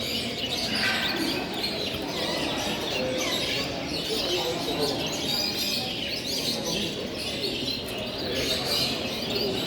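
Many caged show birds, parrots and finch-type songbirds among them, chirping and twittering at once in a dense, steady chorus of short overlapping calls.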